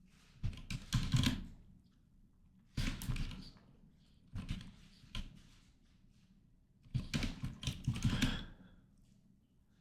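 Typing on a computer keyboard: four short bursts of rapid keystrokes with pauses between them.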